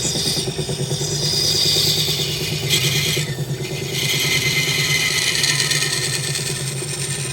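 Wood lathe running with a steady motor hum while a turning tool cuts the spinning wood, giving a hissing cutting noise that stops briefly about three seconds in and then resumes.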